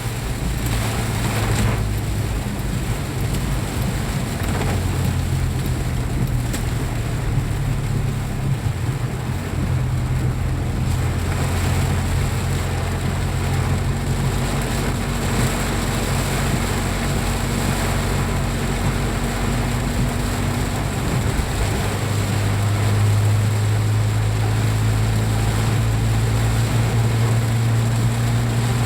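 A motor vehicle running with road noise: a steady low hum over a noisy rush, which grows louder about three quarters of the way through.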